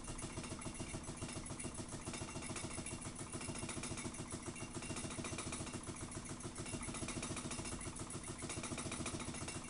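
Homemade free-piston Ringbom Stirling engine running unloaded at high speed on a tiny wick flame, making a fast, even mechanical clatter at a steady speed.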